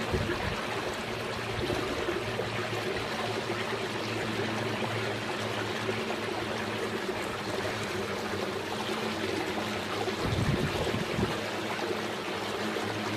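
Steady running, trickling water with a low steady hum under it, and a brief low rumble about ten seconds in.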